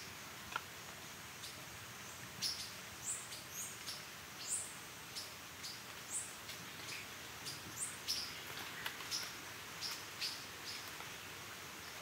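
Amazon rainforest birds calling: many short, high chirps and quick downward-sliding whistled notes, a couple each second, over a steady background hiss.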